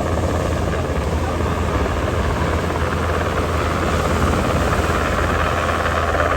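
Steady, continuous aircraft noise with a deep fluttering rumble.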